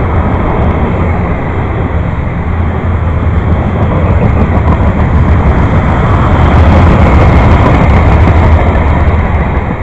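A train rolling past: a loud, steady noise of wheels on rails with a strong deep hum underneath. It grows louder through the middle and eases off near the end.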